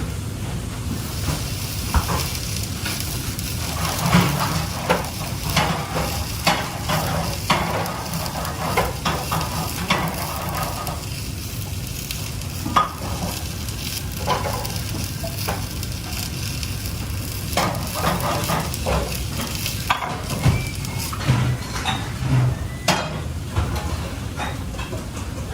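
Food sizzling as it fries in a pan, with a steady hiss and repeated clinks and scrapes of a utensil stirring it.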